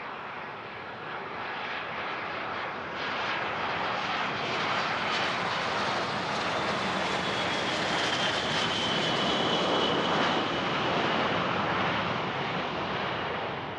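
Business jet's turbofan engines passing down the runway: a rushing engine noise that builds, peaks about two-thirds of the way through with a high, slightly falling whine, then starts to fade.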